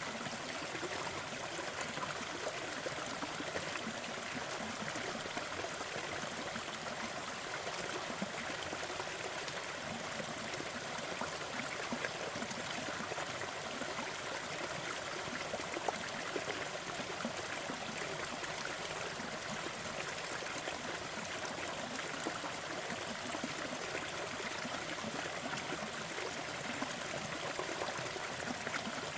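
Waterfall running steadily: an even rush and splash of falling water with small trickling flickers.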